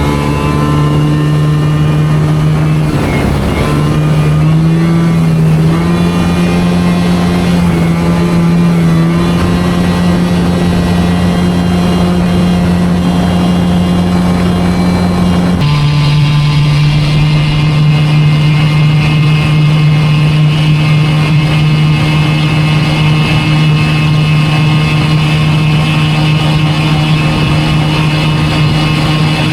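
Homemade boat's engine running at a steady speed, with a brief wobble in pitch a few seconds in and an abrupt shift to a slightly different steady note about halfway through.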